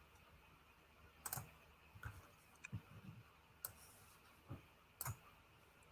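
Faint, irregularly spaced clicks of a computer mouse and keyboard, about seven in all.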